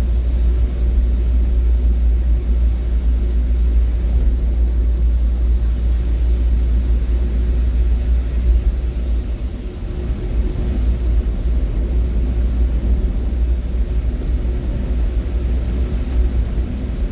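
Steady low rumble of a moving vehicle, dipping briefly about ten seconds in.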